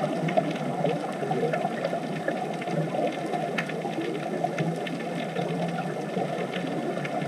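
Underwater ambience: a steady, muffled water rush with scattered faint clicks and crackles.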